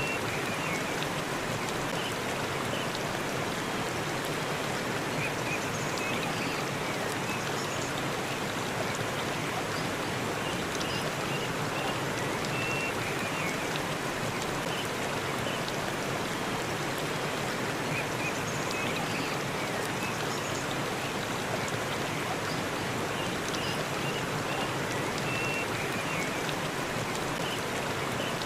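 Waterfall: a steady, even rush of falling water, with a few faint, short high-pitched notes here and there.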